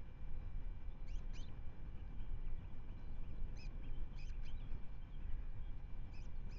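Short, high bird chirps in scattered pairs and triplets, likely calls from around an osprey nest, over a steady low rumble.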